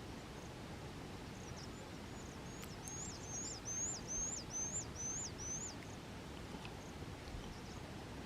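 A songbird singing a quick run of about seven high, repeated whistled notes, each rising and then dropping in pitch, over steady background noise.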